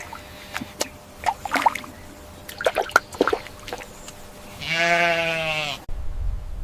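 A sheep bleating once: a single long, steady baa about four and a half seconds in, after a few light clicks and rustles. It is followed by a low rumble after an abrupt cut near the end.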